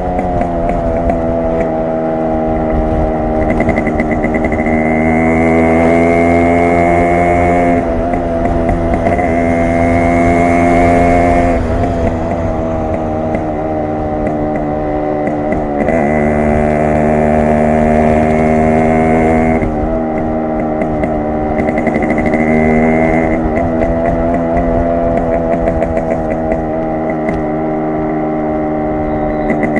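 Yamaha RX 100's two-stroke single-cylinder engine and exhaust while riding, holding a fairly steady note. The pitch dips briefly about twelve and again about sixteen seconds in.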